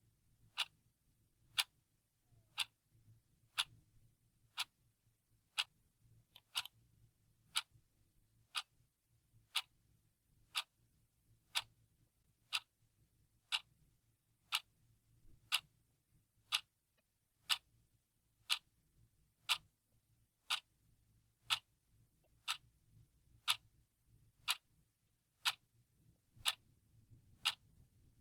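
A clock ticking steadily, one sharp tick about every second, over a faint low hum.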